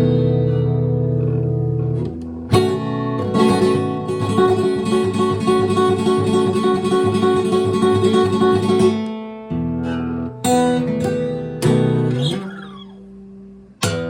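Acoustic guitar music: strummed chords, with a fast rapidly strummed stretch in the middle and a chord left ringing and fading near the end before the strumming resumes.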